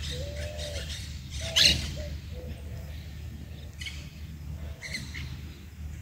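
Wild birds calling: a few short, low arched calls in the first couple of seconds, then scattered brief higher calls.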